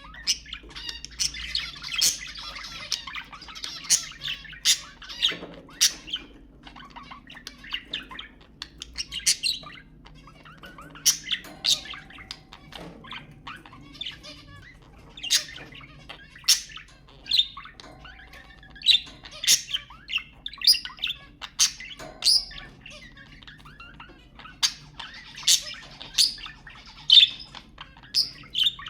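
Budgerigars chattering, with many sharp chirps and squawks coming quickly and irregularly.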